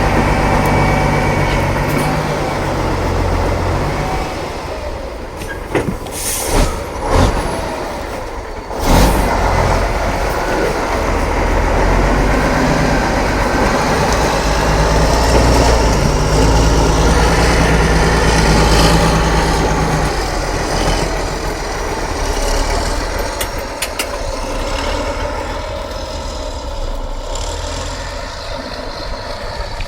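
Heavy off-road trial truck's diesel engine running and working, louder for a stretch in the middle. Three short loud blasts of noise come about six to nine seconds in.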